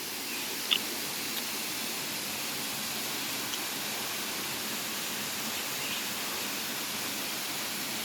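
Steady rush of a waterfall, an even hiss of falling water, with a faint tick about a second in.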